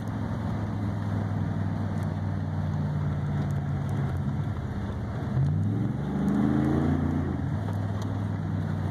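Car engine heard from inside the cabin while driving, running at a steady pitch under constant tyre and road noise. About five seconds in it revs up, then falls back to the steady pitch a second or two later.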